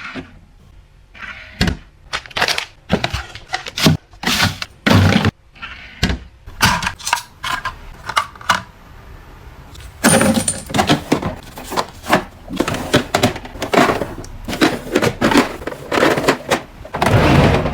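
Household items being handled: a quick run of clicks, knocks and clatter with rustling, growing denser about halfway through.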